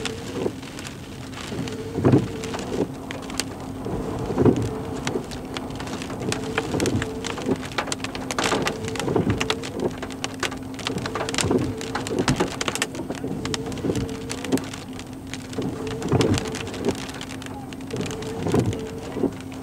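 Rain pattering on a car, with a regular thump about every two seconds over a steady hum.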